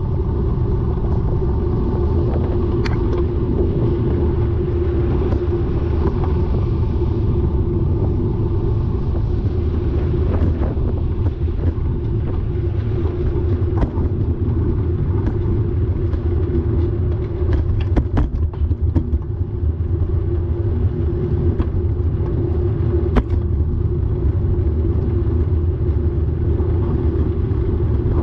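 Steady rumble of wind and tyre noise from a moving bicycle, with a few sharp clicks at uneven intervals.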